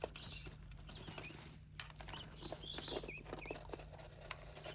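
Small birds chirping softly in short notes, over a run of light taps and scratches from beaks and claws. These are lovebirds nibbling at a king quail chick's leg.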